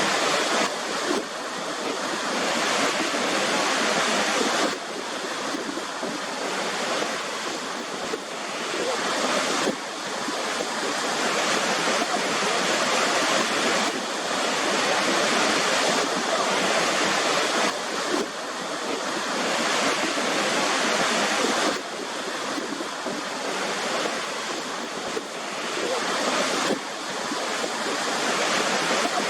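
Waterfall rushing steadily, with abrupt small shifts in level every few seconds.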